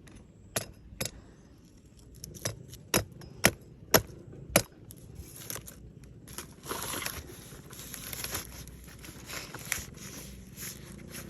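A blade chopping into a coconut: about seven sharp, separate chops in the first five seconds, followed by a run of scraping and rustling from about six and a half seconds in.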